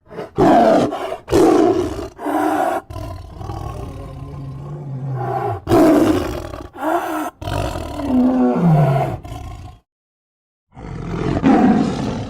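Big-cat roar and snarl sound effects for a cartoon mountain lion. Several short, loud snarls come first, then a longer, lower growl. More snarls follow, one of them sliding down in pitch. After a pause of about a second there is one last roar.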